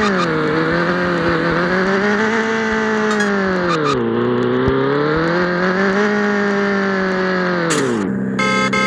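Yamaha XJ6's inline-four engine running through a bare exhaust pipe with no muffler, loud, its pitch rising and falling with the throttle while riding. The note dips sharply about four seconds in, rises again, then drops near the end and settles to a steady lower note.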